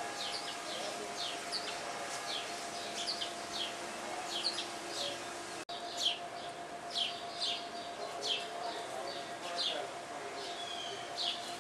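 Sparrows chirping: a steady run of short, high, downward-sliding cheeps, about two a second, with several birds overlapping.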